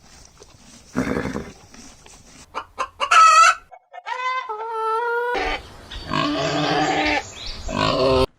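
Chickens and a rooster calling: a loud high squawk about three seconds in, a pitched crow-like call just after, then a loud, harsher call that cuts off suddenly near the end.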